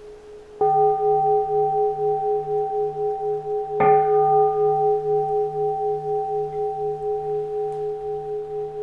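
Keisu, a Japanese Buddhist bowl-shaped bell, struck twice about three seconds apart, the second strike the louder. Each strike rings on in a long tone that pulses gently and slowly fades.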